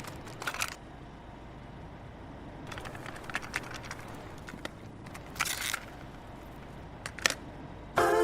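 Low steady hiss with a few short, scratchy rustles scattered through it, then music starts right at the end.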